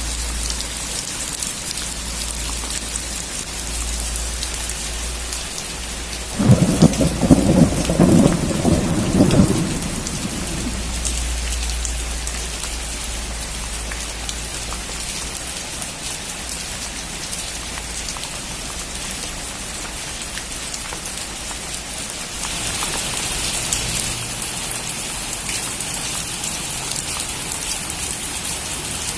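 Steady rain falling, with a loud thunderclap about six seconds in that lasts some three seconds. Near the end the rain turns heavier and hissier.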